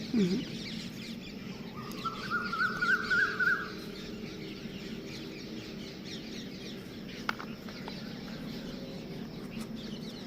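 A chicken calls once about two seconds in, a warbling call lasting about a second and a half, with faint bird chirps and a steady low hum behind it.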